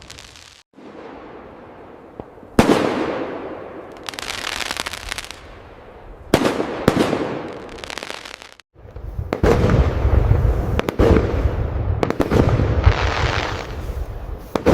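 Fireworks display: single aerial shells burst about 2.5 s and 6.5 s in, each followed by a fading crackle. From about 9 s a dense barrage of bursts and crackling runs over a deep rumble.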